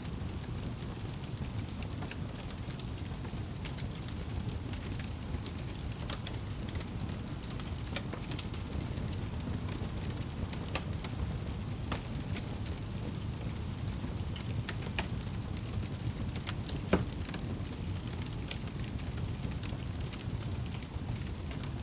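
Wood fire burning in a fireplace: a steady low rumble and hiss with frequent irregular crackles and pops, one sharper pop about 17 seconds in.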